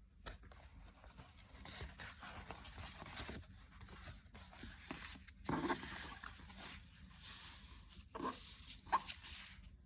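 Irregular scrubbing or rubbing strokes on a hard surface, with a couple of louder scrapes about halfway through and near the end.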